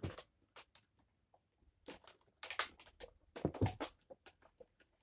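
Handling noise as the power cord is unwound from the cord hooks of a Dyson DC07 upright vacuum: a string of short, irregular clicks and knocks of cord and plastic.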